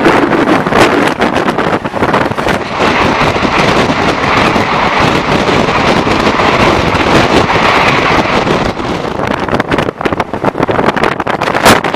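Train running at speed: loud rushing noise of wheels on rail and wind blowing on the microphone, with a sharp click near the end.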